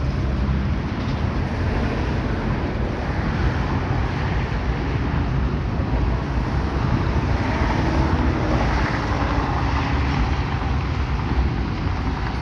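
Kansas City Southern freight train rolling past: a steady, loud rumble of the rail cars on the track.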